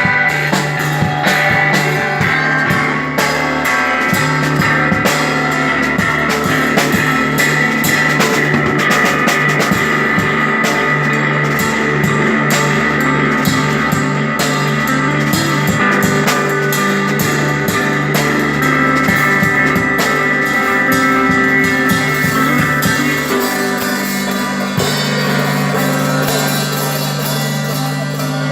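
Rock band playing live, an instrumental passage in a psychedelic, progressive style: electric guitar holding long notes over a drum kit played steadily throughout.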